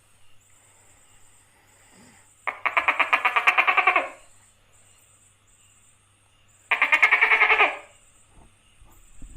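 Gecko calling: two bursts of rapid chattering pulses, about ten a second, each burst lasting a second or so, the second coming about three seconds after the first.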